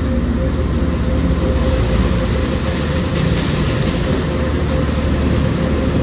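Steady low mechanical rumble with a constant hum and an even wash of noise: car wash tunnel machinery.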